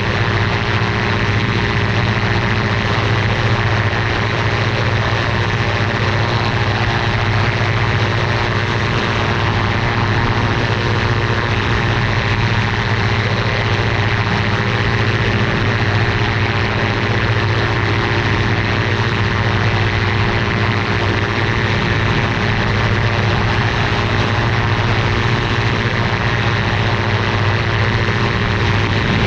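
V200-A ultralight aircraft's engine and propeller running steadily at a constant speed, a continuous drone with no change in pitch.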